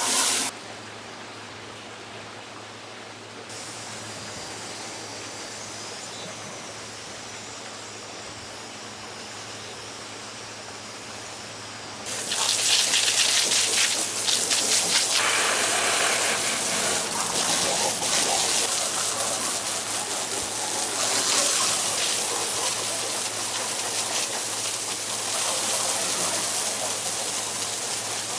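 Water gushing and splashing: a quieter even rush for the first part, becoming much louder and fuller about twelve seconds in and staying so.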